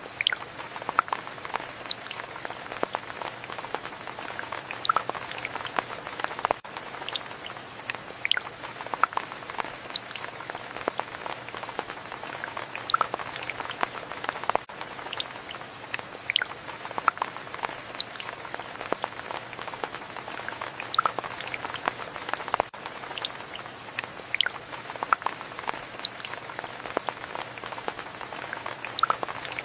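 Steady rain falling, with many separate drops ticking and plinking on a surface over a constant hiss; the same stretch of rain repeats about every eight seconds.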